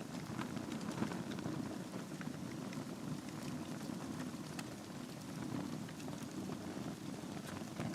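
Logs burning in a fireplace: a steady low rush of flame with small crackles and pops scattered throughout.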